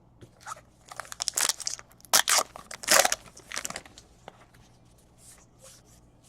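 Crinkling and tearing of a trading-card pack wrapper, in a run of loud rustles over a few seconds that trail off into a few faint ones.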